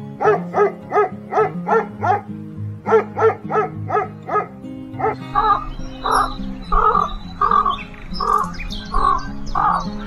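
A dog barking in short, evenly spaced barks, about three a second, for the first four seconds or so. A different animal then calls repeatedly, about one call every second. Steady background music plays throughout.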